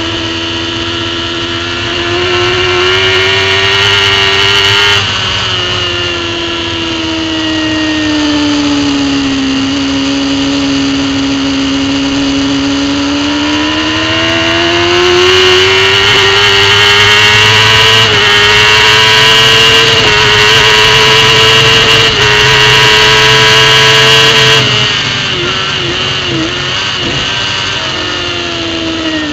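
Racing superbike engine heard from an onboard camera at speed. The engine note sinks for a few seconds, then climbs steadily and loud on a long pull. About 25 s in it backs off sharply with a few quick dips, typical of braking and downshifting for a corner, then falls away near the end.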